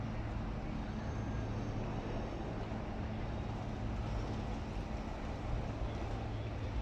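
Steady railway station platform ambience: an even background noise with a constant low hum.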